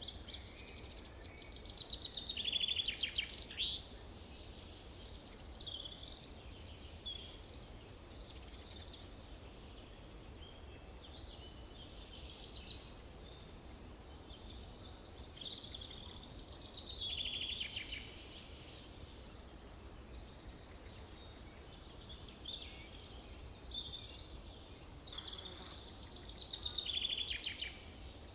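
Several songbirds chirping and singing in a forest, with loud trilled phrases about two seconds in, midway and near the end, over a faint steady low hum.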